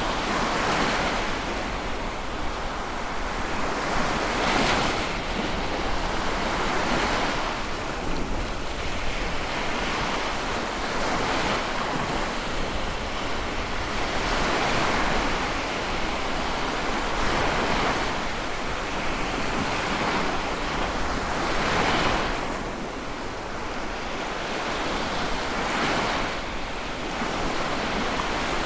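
Sea waves breaking on a shore: a continuous rush of surf that swells and eases every few seconds, with a few breakers standing out louder.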